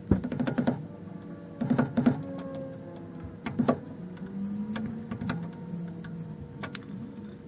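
Old rear axle seal on a Toyota Tacoma being pried out of the axle housing with a metal tool: irregular clusters of sharp metallic clicks and scrapes.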